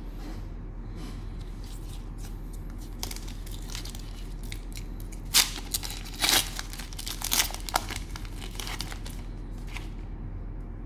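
Cellophane wrapper of a trading-card pack being torn open and crinkled: a run of sharp crackles starting a few seconds in, loudest in the middle, then tailing off.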